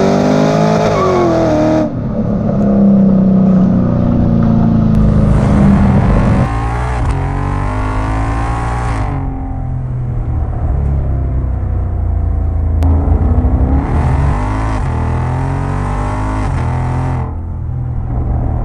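Ford V8 engine revving and idling through its exhaust in several spliced clips: throttle blips rise in pitch and fall back, with stretches of steady idle between.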